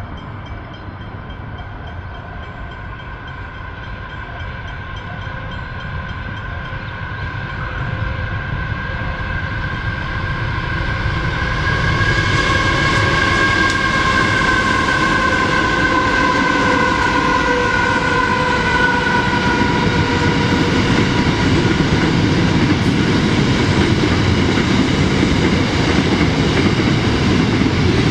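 Pacific National 93 class diesel locomotives at the head of a loaded steel-coil freight train approaching and passing. A steady whine grows louder and then drops in pitch as the locomotives go by. The loaded coil wagons follow, their wheels rumbling on the rails.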